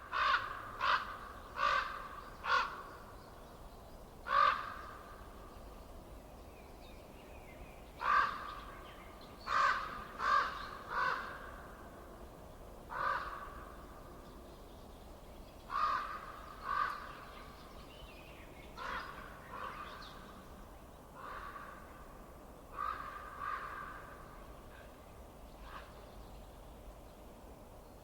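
A bird calling over and over: short pitched calls in bouts of two to four, with pauses of a few seconds between bouts, over a faint steady low hiss.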